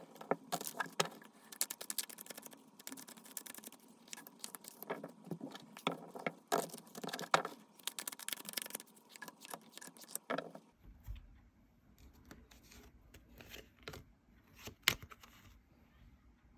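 Tarot cards being shuffled and handled, a fast run of soft clicks and rustles, thinning about ten seconds in to scattered taps and slides with one sharper tick near the end.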